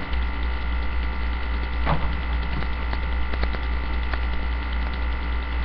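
Steady electrical hum, with a few faint clicks.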